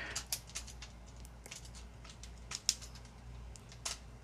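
Scattered small plastic clicks and snaps from a Transformers action figure's parts being worked as its feet are opened up, with a sharper click about two and a half seconds in and another near the end.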